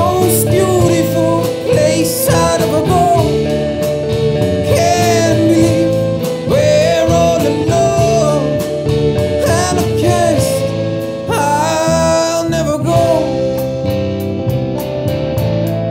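Rock band playing: guitars, bass and drums, with a sung vocal line over them that drops out about two-thirds of the way through, leaving the guitars and drums.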